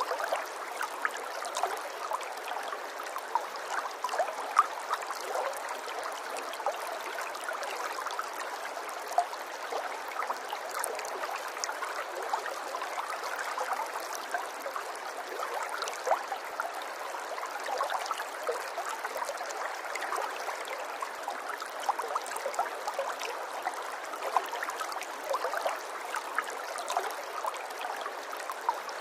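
Running water babbling and trickling steadily, full of small splashes and gurgles, with no deep rumble beneath it.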